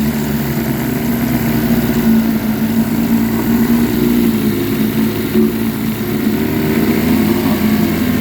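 1953 Scott-Atwater Gold Pennant 7.5 hp two-stroke outboard motor running steadily at a low, even speed.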